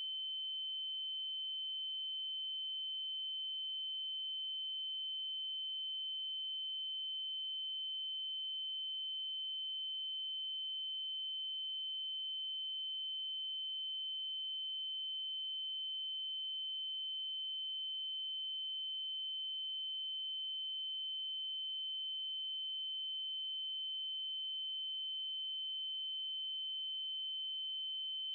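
Steady electronic 3072 Hz triangle-wave test tone, a single high unwavering pitch with faint odd overtones above it, with a very faint tick about every five seconds.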